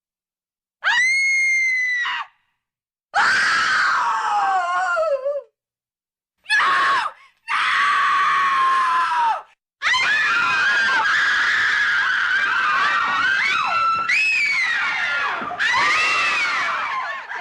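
High-pitched screaming in about five long bursts with abrupt silent gaps between them, the last scream lasting several seconds with its pitch wavering up and down.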